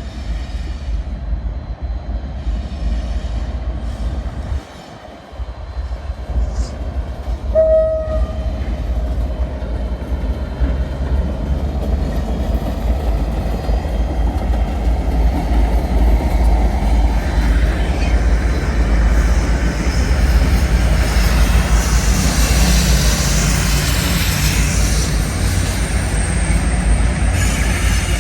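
A train horn sounds one short note about seven seconds in, over the steady low rumble of a train. The rumble then builds as a train moves through, loudest near the end.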